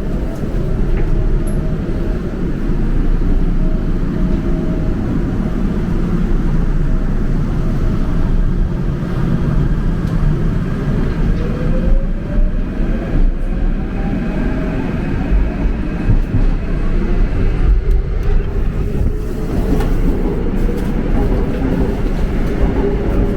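Seoul subway train running with a steady low rumble. About halfway through, an electric motor whine rises in pitch as the train picks up speed.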